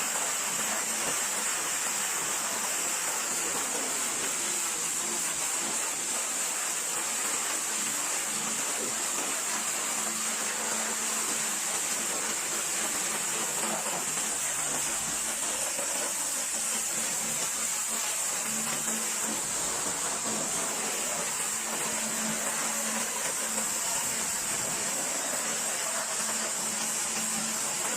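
Pressure washer spraying water in a steady hiss, with no break.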